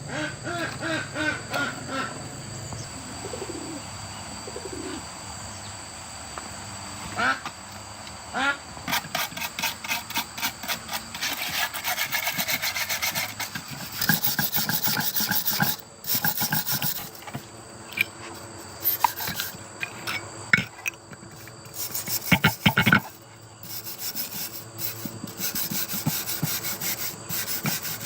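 Rapid, rhythmic rasping strokes of a hand file or scraper working on metal, in runs of a few seconds broken by short pauses.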